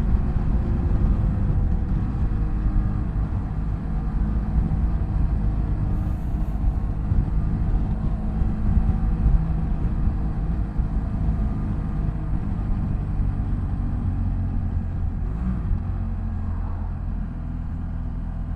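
BMW F800GS parallel-twin engine running on the move, a steady low rumble whose note slowly drops through the stretch.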